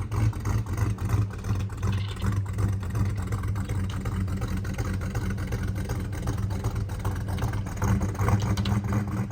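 Classic V8 car engine running with a steady low exhaust note, its loudness rising and falling a little.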